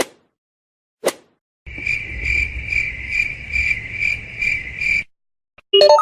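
Cricket chirping sound effect: a high, steady chirp repeating about two to three times a second for about three seconds, preceded by two short pops.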